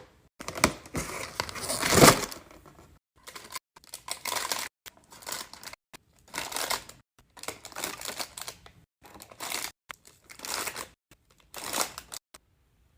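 Plastic packaging crinkling and tearing in a string of short bursts as items are unpacked, with brief gaps between them; the loudest burst comes about two seconds in.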